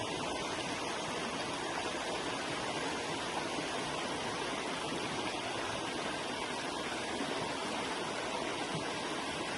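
Forest river flowing: steady rushing and burbling of water over rocks.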